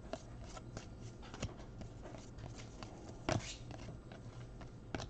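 Baseball trading cards being flipped through by hand: soft rustling with scattered light clicks, the sharpest about three seconds in.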